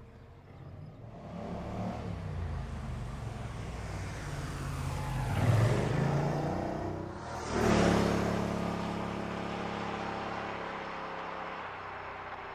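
A car engine accelerating hard. It revs up to a peak about five and a half seconds in, drops off briefly near seven seconds as at a gear change, then pulls loudly again and settles into a steadier run that slowly fades.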